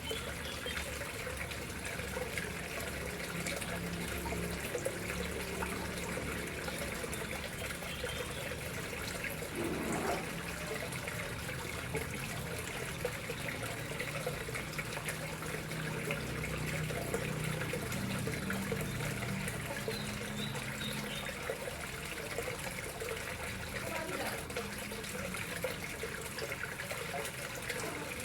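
Water steadily flowing and trickling into a koi pond.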